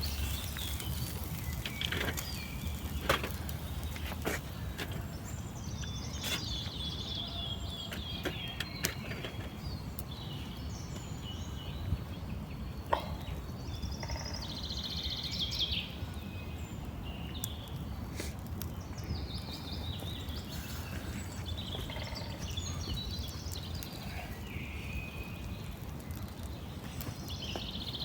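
Outdoor ambience of small birds chirping and trilling at intervals, over a steady low rumble, with scattered sharp clicks.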